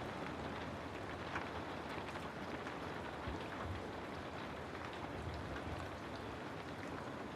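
Steady rain falling: an even hiss with many scattered individual drops ticking.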